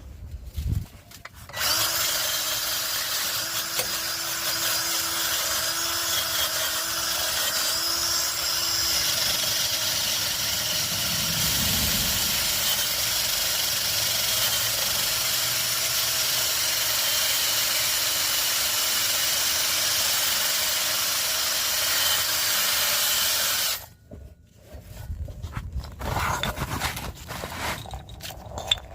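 Handheld rotary power tool cleaning rust off an exhaust pipe before welding. It starts about two seconds in, runs steadily with a constant whine over a hiss, and cuts off about five seconds before the end. A few short scrapes and knocks follow.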